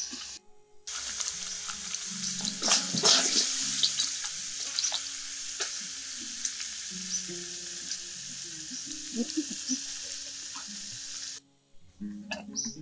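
Crabs sizzling as they are stir-fried in a large metal wok, with the spatula scraping and knocking against the pan, over soft background music. The frying cuts off suddenly near the end.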